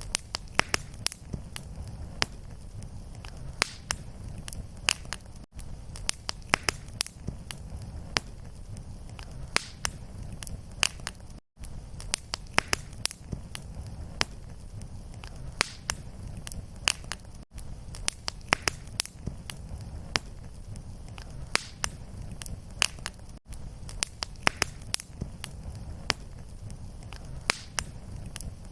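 Wood fire crackling in a fireplace: a steady low rumble of flame under frequent sharp pops and crackles. The sound drops out for an instant about every six seconds.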